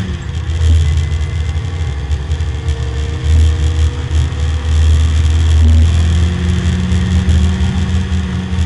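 Porsche 924 race car's four-cylinder engine pulling hard under full acceleration, heard from inside the stripped cabin together with wind and road noise, as the car picks up from about 65 to 90 mph.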